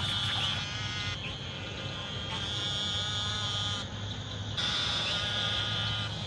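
Night swamp chorus of frogs and insects: a steady, many-voiced buzzing trill with a high ring and a low drone underneath, its texture shifting a few times.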